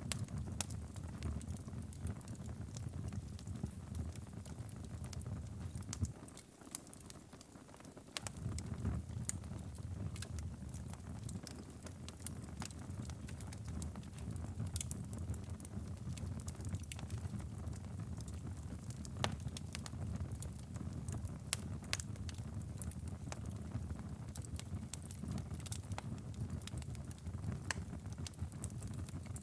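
Wood fire in a fireplace crackling, with scattered sharp pops over a steady low rumble. The rumble drops away for a couple of seconds about six seconds in, then returns.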